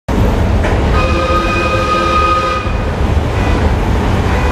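Elevated SEPTA Market-Frankford Line train running past the platform: a heavy steady rumble, with a held whining tone of several pitches for about two seconds starting about a second in.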